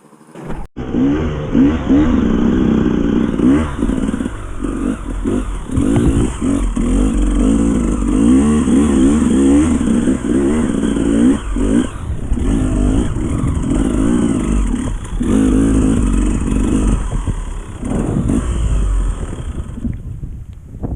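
Enduro dirt bike engine running under changing throttle, revving up and easing off every second or two, with knocks and rattles from the bike over rough ground. The sound cuts in abruptly about half a second in.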